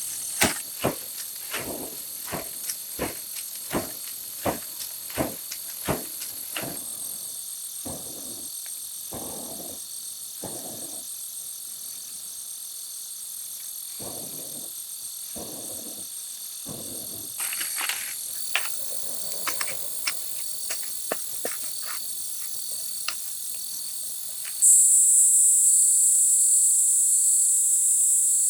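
Steady high-pitched insect chorus, with sharp knocks about twice a second for the first six seconds, then scattered scraping and rustling. About 25 seconds in, a much louder, shrill insect buzz takes over abruptly.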